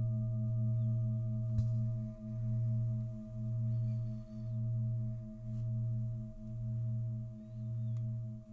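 Singing bowl drone: a low sustained tone that swells and dips about once a second, with steady higher overtones ringing above it. A faint tick about a second and a half in.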